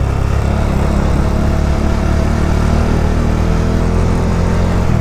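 Motorcycle engine running at a steady cruising speed while riding, its pitch easing slightly lower near the end.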